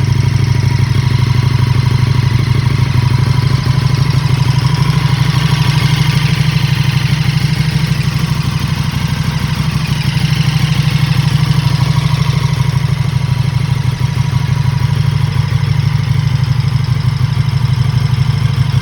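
KTM 1290 Super Duke RR's V-twin idling steadily through a newly fitted Spark Konix Evo titanium exhaust, left running through a heat cycle to bed the new exhaust in.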